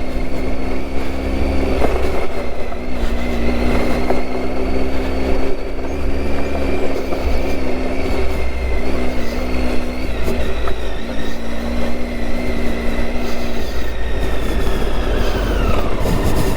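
Motorcycle engine running under way, most likely the Triumph Tiger 800's three-cylinder engine, over a steady low rumble. It holds a fairly even pitch, with a whine that drops in pitch near the end as the revs come down.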